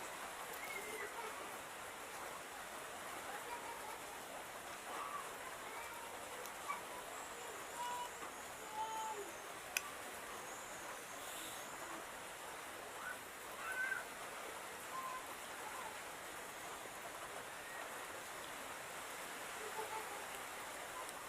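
Small birds chirping and calling on and off, short scattered chirps over a steady hiss, with a few sharp clicks.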